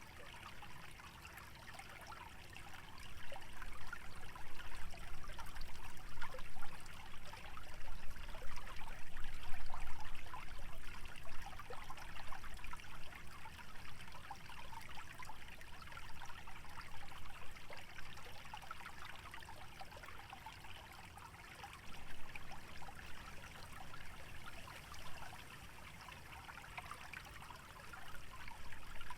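Small stream trickling and burbling steadily through wetland vegetation. Its level swells noticeably for several seconds in the first half, with a low rumble underneath.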